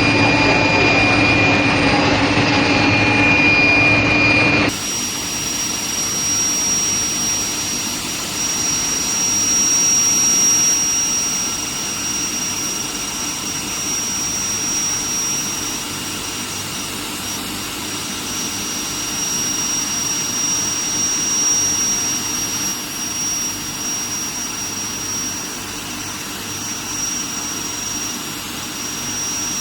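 Steady industrial machine noise from a steel plate induction heating and hardening line, carrying a constant high-pitched whine. For the first few seconds there is a louder hum with a steady mid-pitched tone, which cuts off abruptly.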